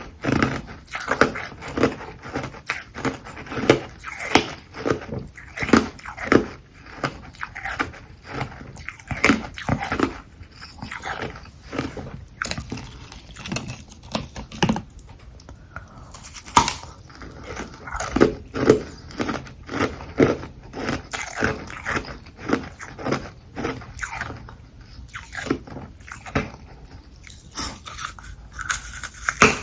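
Close-miked biting and chewing of carbonated ice, frozen from fizzy water in a bottle: a steady run of sharp crunches, about two a second.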